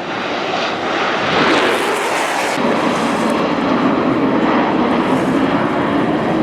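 Airplane engine running loud and steady, with a brighter, higher rush from about a second and a half to two and a half seconds in.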